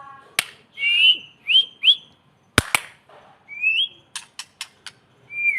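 White-rumped shama (murai batu) singing: short rising whistled notes mixed with sharp clicks, including a quick run of four clicks about four seconds in.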